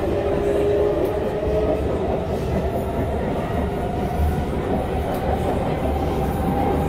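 Running noise of an SMRT C151 metro train heard from inside the carriage while it travels: a steady rumble of wheels on rail, with a faint whine that drifts in pitch.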